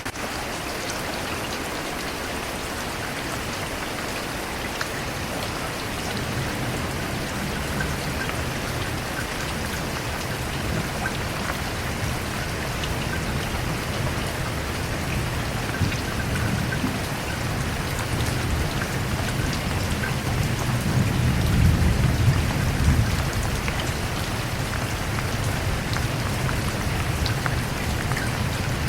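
Steady rain falling, with scattered drops, and a low rumble of thunder that builds slowly and is loudest a little past two-thirds of the way through before easing off.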